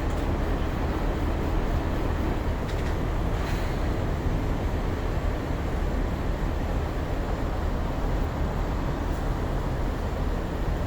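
Heavy vehicle engine running steadily, a low rumble under street noise.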